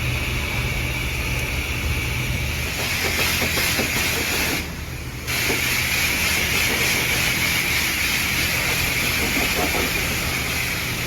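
Truck engine running with a steady low hum under a strong hiss. The hiss drops out for about half a second near the middle.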